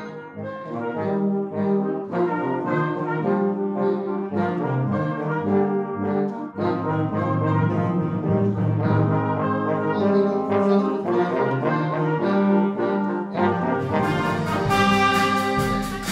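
A brass band playing a piece in held chords, trombones and trumpets prominent; near the end the music gets brighter and fuller.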